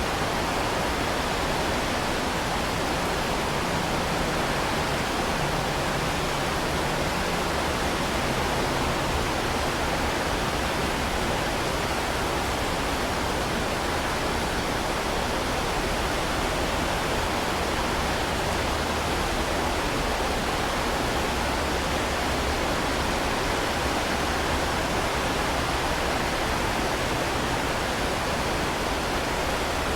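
Heavy rain falling steadily as an even, unbroken hiss, with no single drops or gusts standing out.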